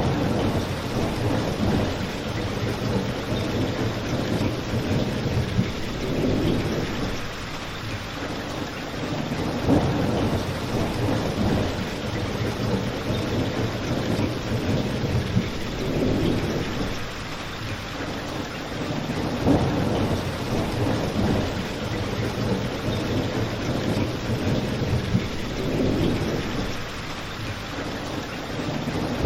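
Steady rain mixed with a crackling fireplace. Low swells rise and fall every few seconds, and a few sharp pops stand out.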